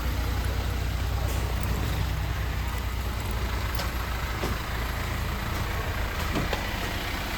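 Motor vehicle engine idling with a steady low rumble, which eases after about four and a half seconds.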